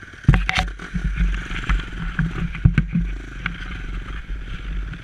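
Dirt bike engine running at idle, covered by a loud low rumble and scraping on the microphone that starts about a third of a second in.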